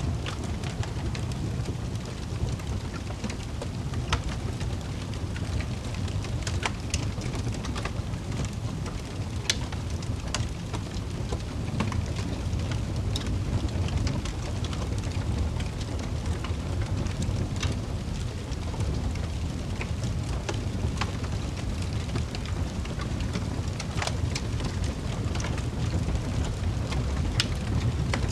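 Wood fire burning in a fireplace: a steady low rumble with sharp crackles and pops scattered through it, about one every second or two.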